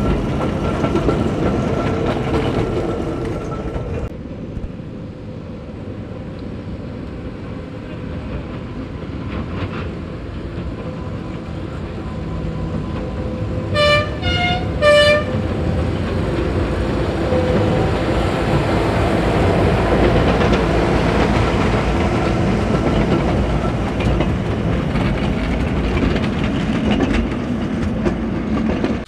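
Miniature-gauge train rolling along the track, its wheels clicking over the rail joints. A small locomotive gives three short toots about halfway through, and its running grows louder as it comes up and passes.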